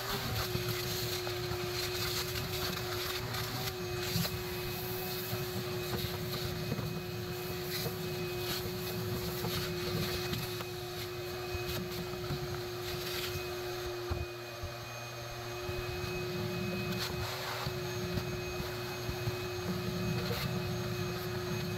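Vacuum cleaner switched on and running steadily with a constant whine, sucking dust and debris out of a gas water heater's burner chamber, with scattered small clicks.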